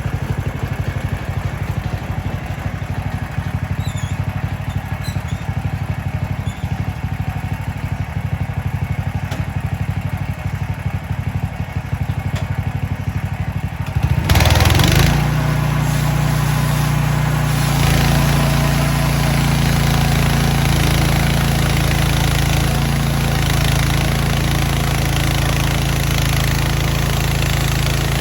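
Gasoline engine of a Mechmaxx portable band sawmill running. At first it runs at low speed with a fast, even pulsing. About halfway through it surges briefly louder and then settles into steadier, faster running.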